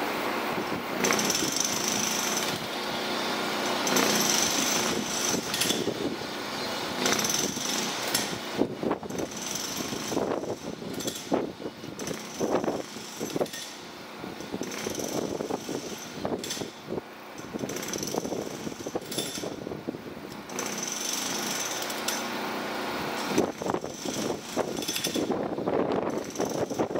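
Chu-Kuang express train cars rolling along the track, wheels clattering and knocking irregularly over rail joints and switches above a steady rumble, with a recurring high hiss.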